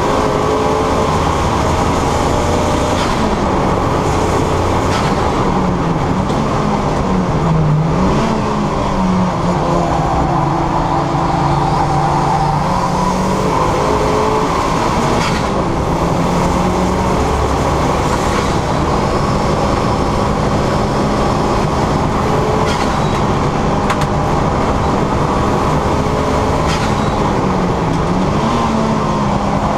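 Turbocharged 2.0 Duratec four-cylinder engine of a Ford Fiesta ST150 under hard driving on a race track, its note holding steady for stretches and dipping and climbing again several times with gear changes and corners, over constant road and wind noise.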